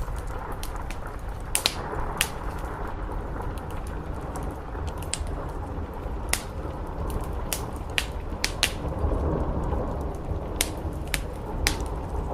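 Steady rain on a roof mixed with a crackling wood fire: a constant hiss and low rumble with about a dozen sharp pops and snaps scattered through it. The rumble swells briefly about nine seconds in.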